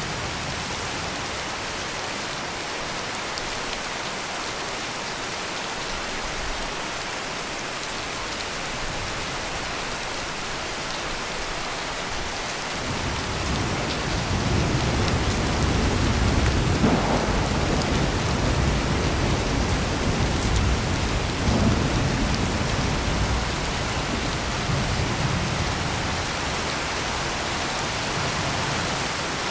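Heavy rain pouring steadily, with a long low roll of thunder building about halfway through, swelling twice and fading away near the end.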